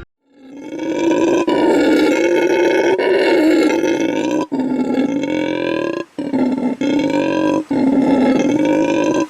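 A large animal roaring: one loud, drawn-out call, broken three times by brief sudden gaps.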